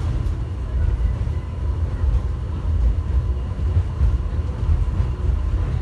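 Airport terminal subway train running along its track, heard from inside the car: a steady deep rumble with a faint thin whine above it.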